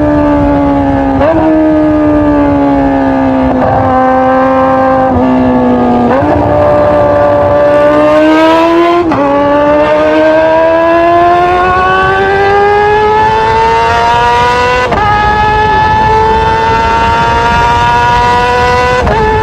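Kawasaki ZX-25R's 250 cc inline-four running at high revs through an Austin Racing GP1R full-system exhaust. The note is high and rises and falls, with several brief breaks and steps in pitch.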